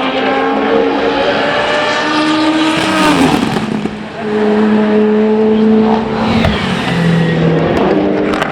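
Endurance race cars running at speed past the track, their engine notes stepping in pitch through gear changes. One car passes with a falling note about three seconds in, and another takes over with a steady note that drops again about six seconds in.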